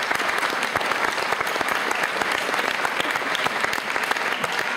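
An audience applauding steadily: many hands clapping at once in a dense patter.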